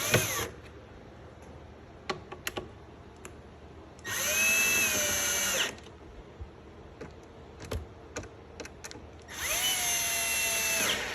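Power drill driving screws to secure an amplifier chassis: two runs of about a second and a half each, the motor whine rising as it starts and dropping as it stops, with a short burst at the very start and small clicks and knocks between.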